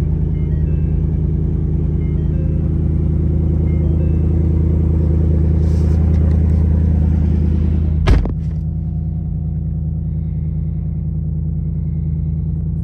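A 2024 Ford Mustang RTR's 5.0-litre V8 idling steadily with a deep, even rumble. About eight seconds in there is one sharp knock.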